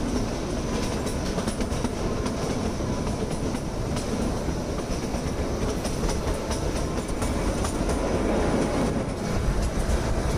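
Kalka–Shimla narrow-gauge toy train running, heard from an open coach doorway: a steady rumble of wheels on the rails with light clacking from the rail joints.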